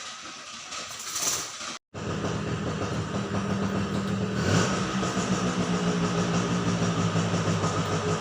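Steady low engine-like hum with background noise, beginning after an abrupt cut about two seconds in.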